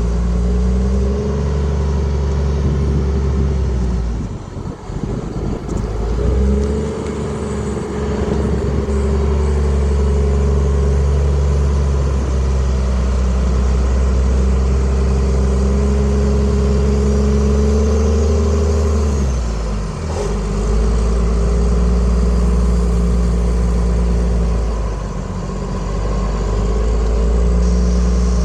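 Case 921C/2 loader's diesel engine running steadily. Its note drops and changes briefly about four seconds in and again around twenty seconds.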